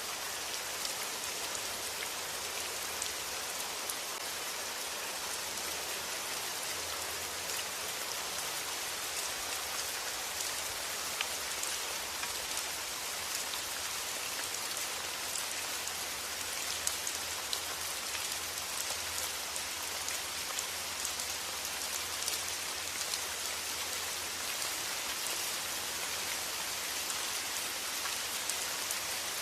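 Steady rain: a dense, even hiss with many fine drop ticks.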